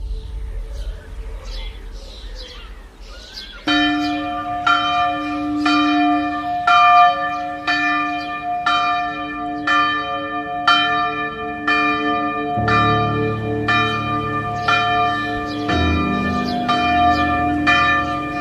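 Bells ringing in rapid, evenly spaced strikes, about one and a half a second, each strike the same ringing chord that hangs on. The strikes start about four seconds in, and a lower, steadier tone joins about two-thirds of the way through.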